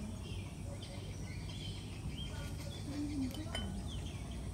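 Outdoor ambience: scattered faint bird chirps, one sliding downward, over a steady low background rumble.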